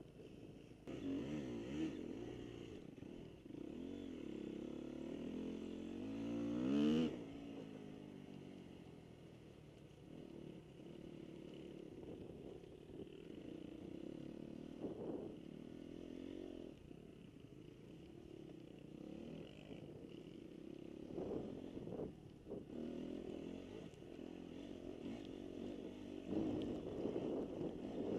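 Motocross dirt-bike engines revving up and down as they ride around the track. The loudest is about seven seconds in, rising in pitch and then falling away.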